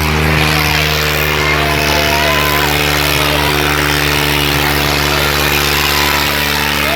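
Tractor engine running steadily at constant speed, a low, even engine note with no change in revs.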